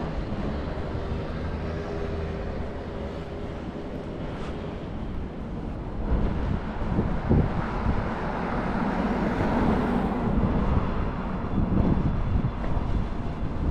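City street traffic: vehicle engines and tyres passing, with a low rumble of wind on the microphone. The traffic noise swells louder about six seconds in.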